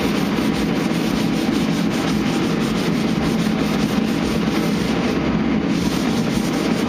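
Sandpaper on a hand sanding block rubbed back and forth over a truck's body panel, feathering body filler into the surrounding paint: a continuous, even scratching.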